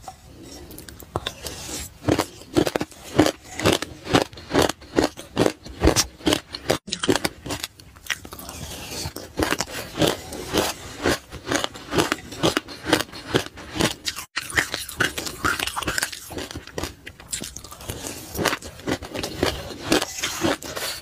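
Close-up crunchy chewing of a mouthful of sesame seeds, short crunches coming about three a second.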